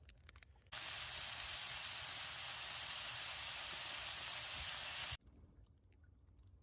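A steady, even hiss that starts abruptly about a second in and cuts off sharply about four and a half seconds later.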